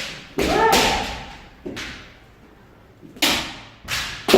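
Kendo sparring: a long shouted kiai about half a second in, then several sharp strikes and stamps, from bamboo shinai hitting armour and feet stamping the floor.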